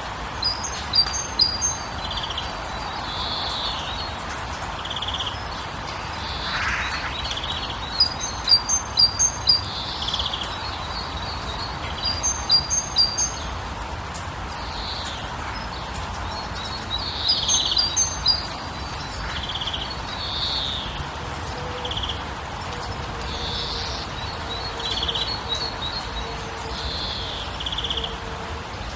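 Several songbirds singing over a steady background hiss. One bird repeats a quick run of three to five short, high notes every few seconds, while other birds give separate single calls in between.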